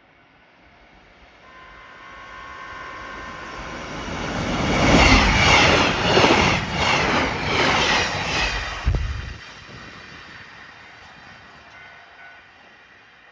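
JR Hokkaido 789 series limited express electric train passing through a station without stopping: it approaches, rises to a loud rush of wheels on rail with a quick run of rhythmic clickety-clack from the bogies, then cuts off as the last car clears and fades away.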